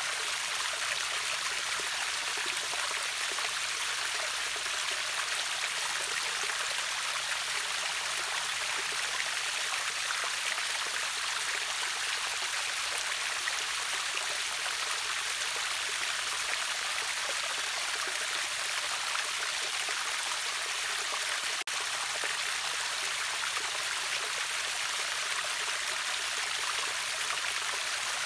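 A river waterfall running, a steady, even hiss of falling and splashing water with little low rumble.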